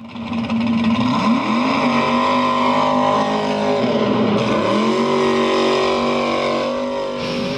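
A vehicle engine running at high revs, its pitch dipping and climbing back twice.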